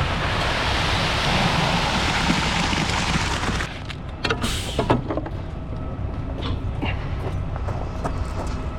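Wet concrete rushing out of a mixer truck's chute for about three and a half seconds, then a few sharp knocks and clanks over the truck's engine running.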